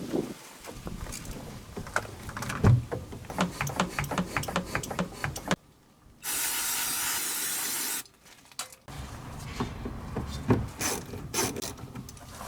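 Ratchet wrench clicking in quick runs as fasteners are worked loose under a car during fuel tank removal. About halfway through, a steady hiss lasts about two seconds, then the ratcheting resumes.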